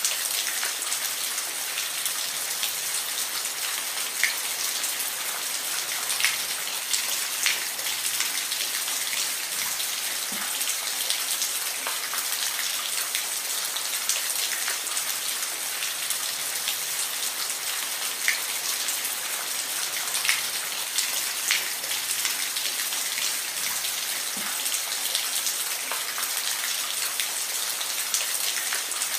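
Steady rain falling, an even hiss with scattered louder individual drops striking a surface every few seconds.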